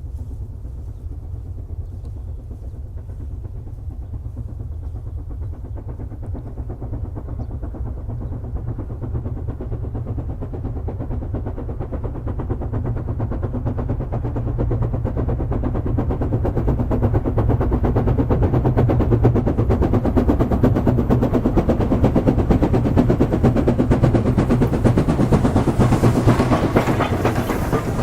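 Steam-hauled train on the Pingzhuang mining railway (SY-class locomotive) approaching, a steady low rumble that grows louder through the second half.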